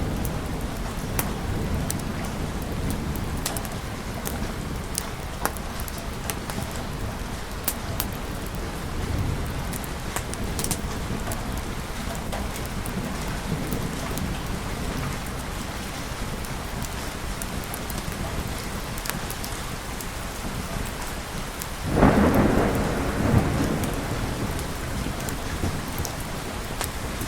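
Steady heavy rain with low rolling thunder; about 22 seconds in a sudden loud thunderclap breaks and rumbles away over the next few seconds.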